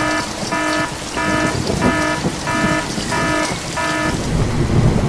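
An electronic beeper sounds a repeated alarm-like beep, about one and a half beeps a second, with seven beeps before it stops about four seconds in. A steady hiss runs underneath throughout.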